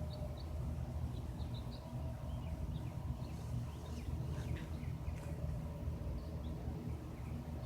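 Small birds chirping in short, scattered calls over a steady low mechanical rumble.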